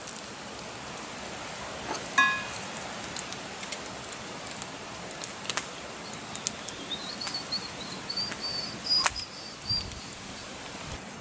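Forest ambience with a bird singing a quick run of short, high chirps in the second half, over a steady hiss, with scattered small clicks and one short ringing note about two seconds in.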